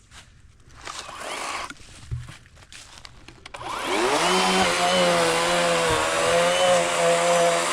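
Battery-powered 40-volt Worx WG384.9 electric chainsaw with an 18-inch Oregon bar spinning up about halfway through, its pitch rising, then running steadily at full speed. Before it starts there is faint rustling and a few knocks.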